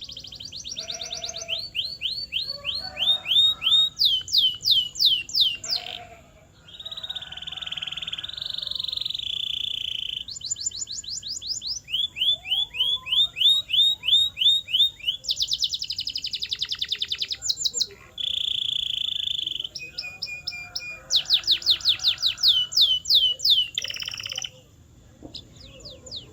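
Domestic canary singing a long song: fast runs of repeated rising notes alternating with steady high rolling trills. The song breaks off briefly about six seconds in and again near the end.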